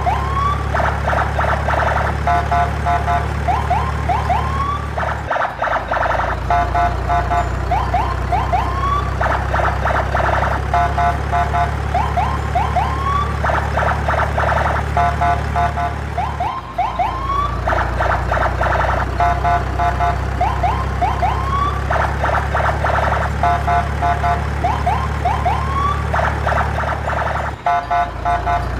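Electronic siren and alarm sound effects: rising whoops, rapid warbles and pulsed beeps over a steady low drone, repeating as a loop about every 11 seconds.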